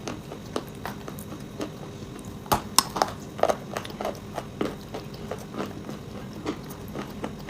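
Dry chalk and clay crunching with irregular sharp cracks and crackles, loudest a few seconds in.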